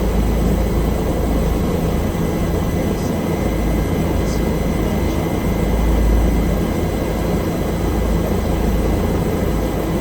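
Bell helicopter in flight, a loud, steady drone of turbine and rotor noise with a thin steady whine above it, heard from inside the cabin.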